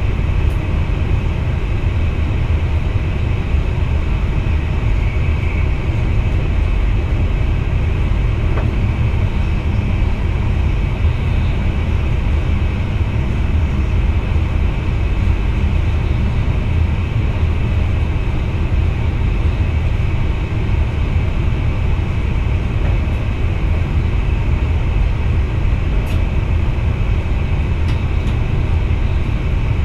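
Steady rumble of a VIRM double-deck electric train running along the track, heard from inside the driver's cab.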